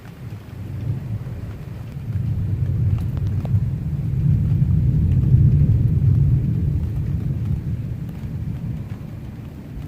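Low thunder rumbling, swelling over a few seconds to its loudest in the middle and then slowly dying away.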